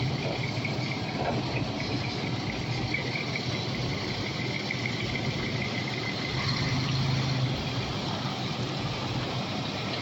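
A car engine idling, a steady low hum that swells briefly about seven seconds in.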